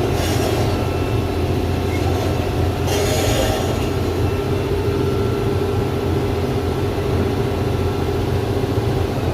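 Doosan 420LC excavator's diesel engine running steadily under travel, with a steady whine above the low drone. There are two short hisses, one at the start and another about three seconds in.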